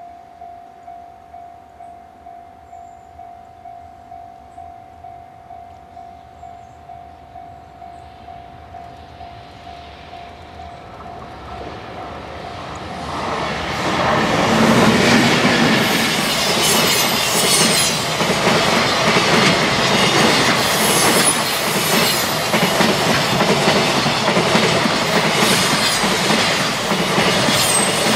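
Level-crossing warning bell ringing about twice a second, then an EH500 electric freight locomotive and its container wagons approach and pass close by, growing loud from about twelve seconds in, with wheels clattering over the rail joints. An E721 local electric train is passing near the end.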